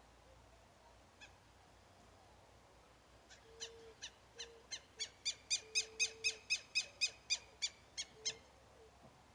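A bird calling a series of about seventeen short, ringing notes that speed up and grow louder, then ease off and stop. A faint, low, intermittent tone sounds beneath them.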